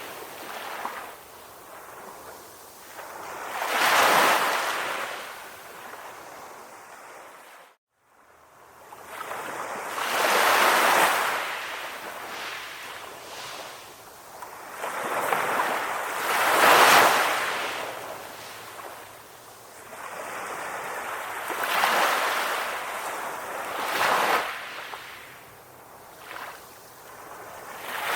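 Calm ocean waves, each wash of surf swelling and fading every few seconds. There is a brief moment of silence about eight seconds in.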